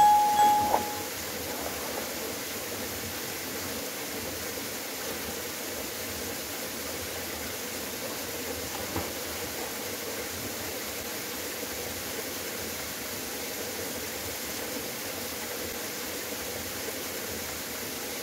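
Waterfall, a steady rushing of falling water. A short, louder tone sounds in the first second.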